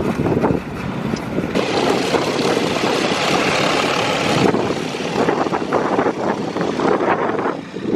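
Vehicle engine noise, dense and steady, with a brighter hiss for a few seconds in the middle.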